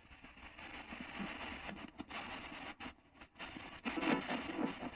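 Spirit box radio (a Hex box) sweeping through stations: rushing static that cuts in and out in short chopped bursts, with brief fragments breaking through.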